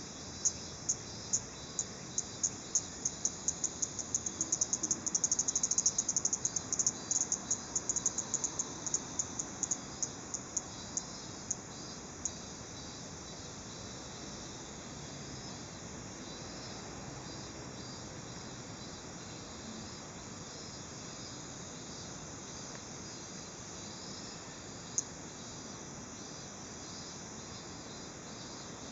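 A cicada giving short, sharp 'chi-chi' clicks, a few a second. They crowd closer together for a few seconds, then thin out and stop about twelve seconds in, the chirping of a cicada alarmed by being approached. After that only a steady faint hiss, with one more click near the end.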